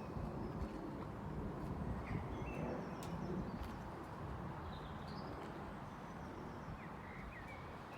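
Outdoor ambience: a steady low background rumble, with small birds chirping a few short calls about two, five and seven seconds in.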